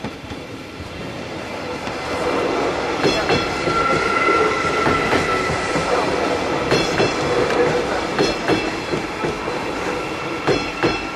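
Modern articulated passenger train passing close by. Its running noise builds over the first couple of seconds and then holds steady with a faint whine, while the wheels give sharp clickety-clack strikes over the rail joints several times.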